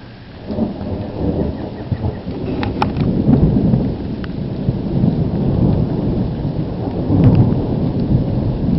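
Thunder overhead: a long low rumble that breaks in about half a second in and keeps rolling and swelling for several seconds, with rain falling.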